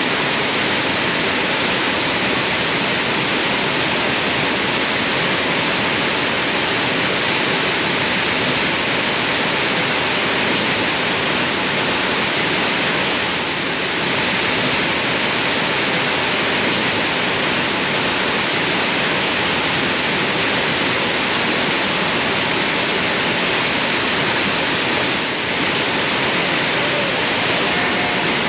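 Waterfall rushing close by: a loud, steady hiss of falling water, with brief slight dips about halfway through and again near the end.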